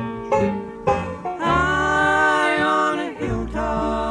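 Bluegrass band playing, with banjo picking over guitar, mandolin and bass. From about a second and a half in, voices come in on long held, sung notes.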